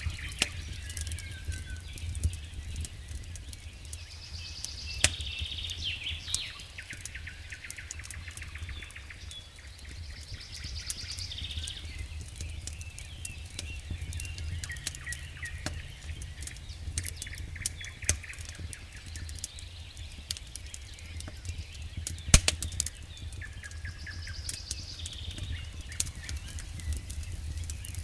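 Wood campfire crackling with irregular sharp pops, one louder pop about three-quarters of the way through. Birds sing short phrases now and then, over a steady low hum.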